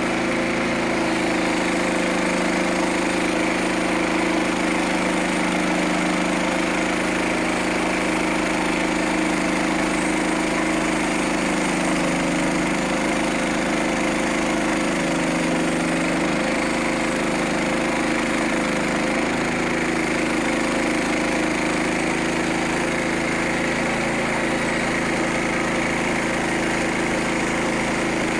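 Small gasoline engine of a portable bandsaw sawmill running steadily, its pitch dipping briefly a few times around the middle.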